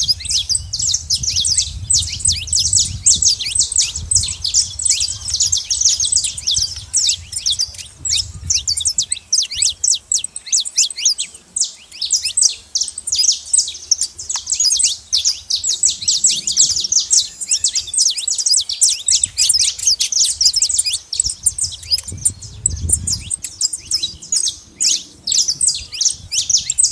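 Saffron finches chirping and chattering nonstop, a dense stream of quick, high chirps from several birds at once.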